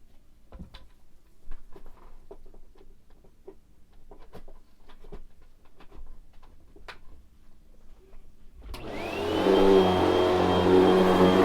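Light clicks and taps of handling, then a vacuum cleaner is switched on nearly nine seconds in. Its motor spins up with a quickly rising whine that settles into a steady high-pitched run.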